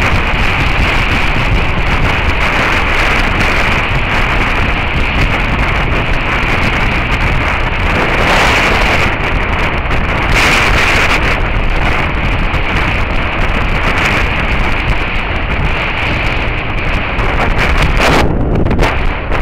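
Heavy wind noise buffeting the mic of a camera mounted on a moving motorcycle. Under it runs the steady sound of a Suzuki SV650S V-twin at road speed through a Beowulf aftermarket exhaust. The wind swells briefly twice near the middle.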